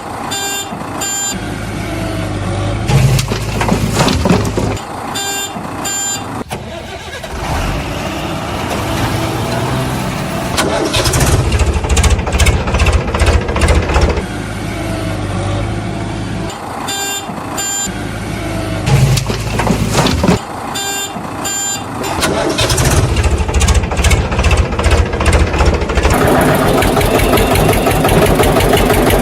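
Vehicle engine rumble with groups of short high electronic beeps; the same pattern of rumble and beeps comes round again several times.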